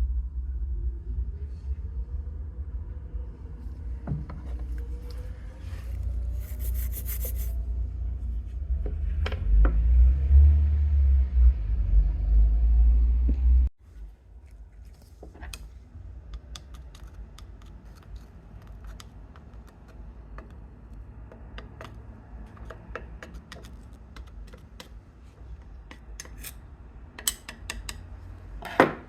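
A low rumble for roughly the first half, cut off suddenly. It is followed by scattered light clicks and taps of small tools and engine parts being handled.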